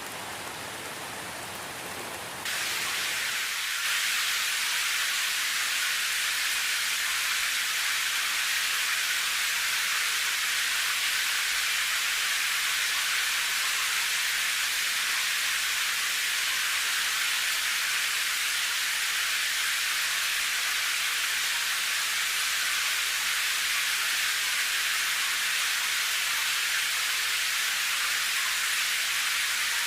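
Edited rain soundtrack: rain noise that cuts abruptly, about two seconds in, to a louder, steady hiss with little low end, like a different heavy-rain recording spliced in.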